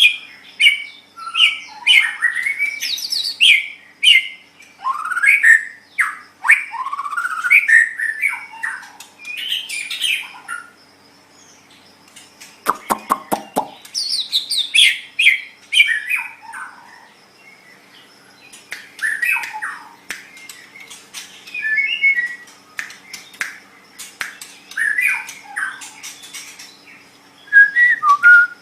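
White-rumped shama (murai batu) singing: varied phrases of rising and falling whistles and chirps, separated by short pauses, with a brief burst of rapid clicks about halfway through.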